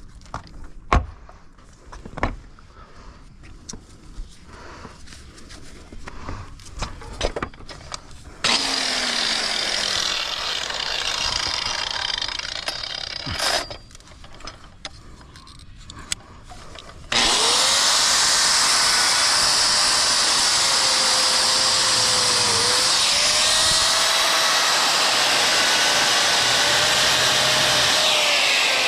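Handheld angle grinder grinding out the mortar joints of a brick chimney, loud. Several seconds of light knocks and taps come first; the grinder runs about 8 seconds in, stops briefly, then starts again and grinds steadily to the end, its motor pitch wavering under load.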